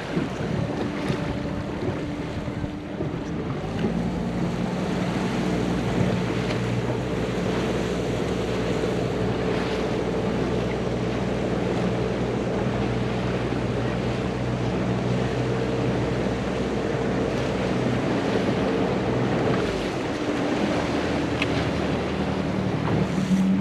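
Motorboat outboard engine running steadily under wind and water rush, with wind buffeting the microphone. The engine note shifts up about four seconds in and drops back near the end.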